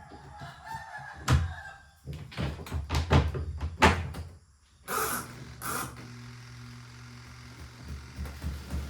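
A rooster crows for about a second and a half, followed by a run of sharp knocks and clatter. Two short hissing bursts come about five seconds in, then a steady low machine hum.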